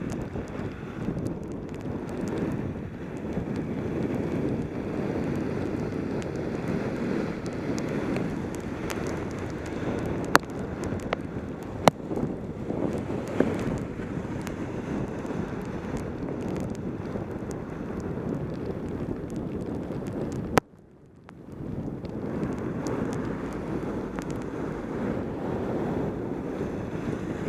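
Wind buffeting a helmet-mounted camera's microphone during a fast bicycle descent in the rain, a steady low rushing. There are a few sharp clicks in the middle. About three-quarters of the way through the sound cuts out suddenly for about a second, then comes back.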